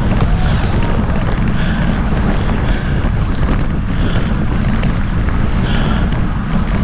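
Wind buffeting the microphone of a camera on a moving bicycle, a loud, steady low rumble.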